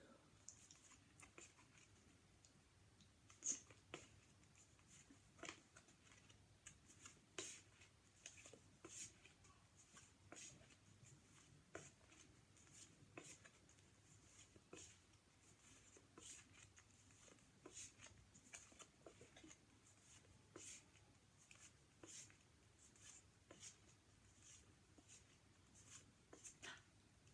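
Faint card handling: phonics flashcards being flipped one after another, a short papery click or snap about every second, over a quiet room hum.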